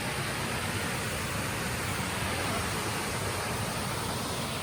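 Water pouring over a creek dam: a steady, even rushing.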